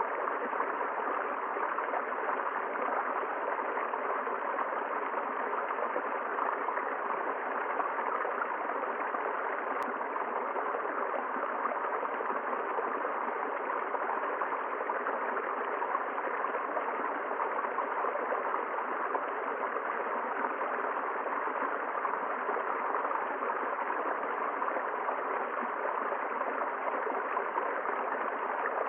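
A river flowing over stones in a steady, unbroken rush of water.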